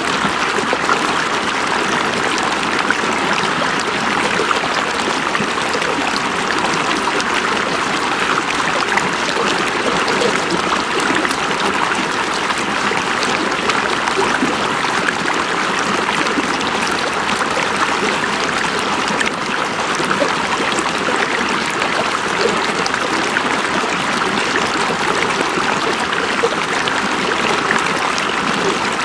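River water flowing steadily over rocks: a continuous, even rushing and babbling.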